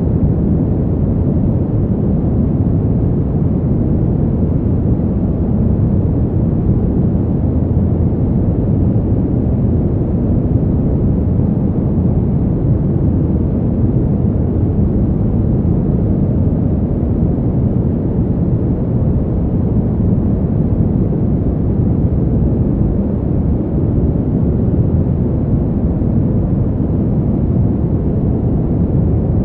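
Winter wind ambience: a steady, deep, even rush of wind noise with no gusts or breaks, heavy in the bass and with little hiss.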